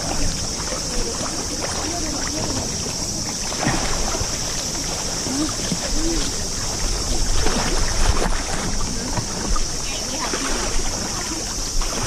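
Steady rush of river water, with wind rumbling on the microphone and faint distant voices now and then.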